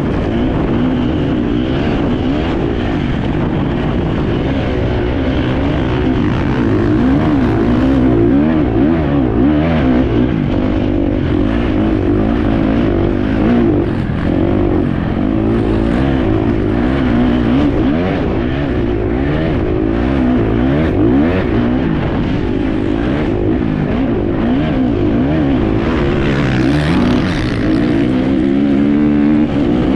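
Enduro motorcycle engine heard from on board, revving up and down continuously as the rider works the throttle and gears.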